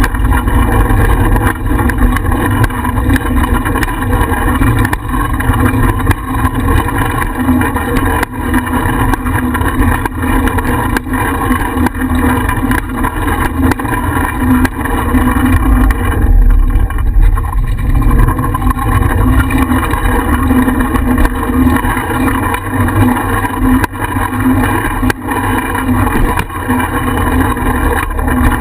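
Wind buffeting and road rumble on a bicycle-mounted GoPro while riding: a loud, steady low rumble with many small clicks and rattles.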